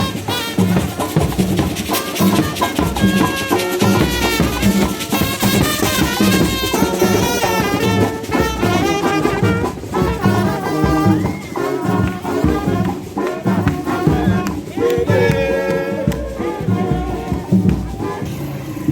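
A brass band with drums playing a lively tune: trumpets and trombones carry the melody over a steady drumbeat.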